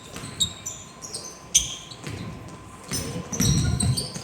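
Basketball being played on a gym court: sneakers squeak in short chirps and a ball bounces, over a low murmur in the hall.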